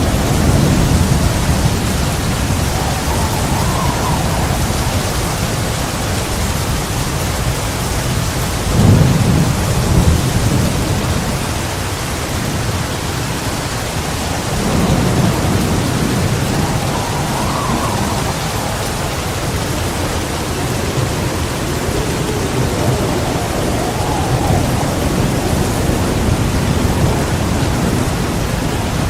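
Heavy rain falling steadily, with rolls of thunder rumbling through it: one near the start, the loudest about nine seconds in, and another about fifteen seconds in.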